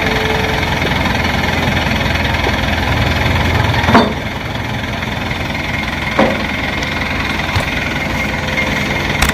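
Diesel engine idling steadily, with a loud sharp clank about four seconds in and a smaller one about two seconds later.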